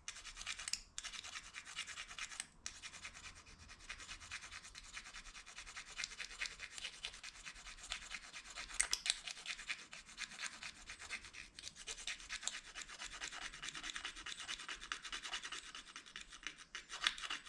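Plastic spoon being rubbed hard against a plastic fork, a fast continuous scraping with brief pauses about a second in and again shortly after.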